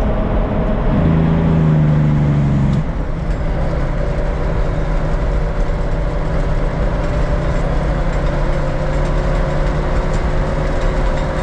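Diesel engine of a loaded 1964 Kenworth log truck running as the truck drives down a mountain road. The engine note swells and holds a steady, louder tone for about two seconds near the start, then settles back.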